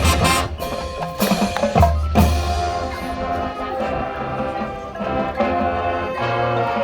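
High school marching band playing its field show: loud ensemble hits in the first couple of seconds, then held chords over mallet percussion.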